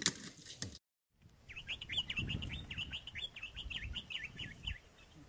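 Small birds chirping: a quick run of short, high, falling chirps lasting about three seconds, after a brief dropout to silence near the start.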